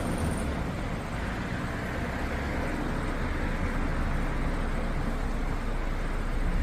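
Thunderstorm sound: a steady low rumble with a noisy hiss over it, holding an even level without sharp cracks.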